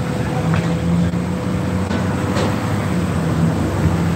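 A motor vehicle's engine running steadily close by in street traffic, a low hum under road noise.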